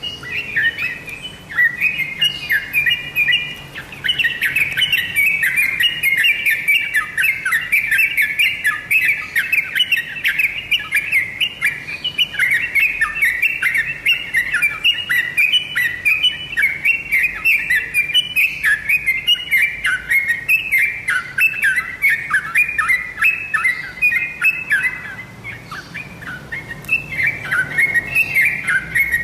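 Yellow-vented bulbul singing a fast, continuous run of chirpy, bubbling notes, with a short pause about 25 seconds in before it resumes.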